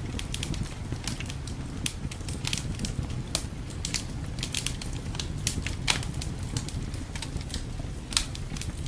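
Wood fire crackling in a fireplace: irregular sharp pops and snaps, several louder ones about three and a half, six and eight seconds in, over a steady low rumble.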